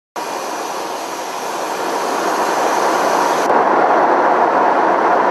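Steady jet aircraft engine noise, growing a little louder over the first few seconds.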